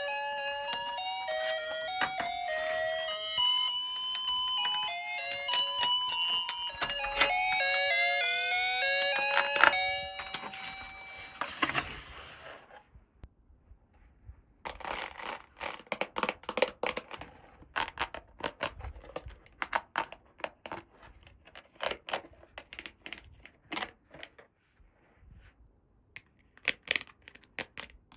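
A chiming melody of short stepped notes plays for about ten seconds and fades out. Then come scattered light clicks and taps of small plastic toy pieces being handled, in irregular clusters.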